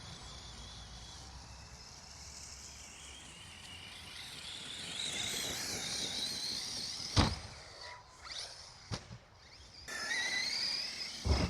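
Electric RC truck's motor whining as it is driven, the pitch wavering and rising with the throttle. A hard landing thump comes about seven seconds in, lighter knocks follow, and the whine returns before another hard landing near the end.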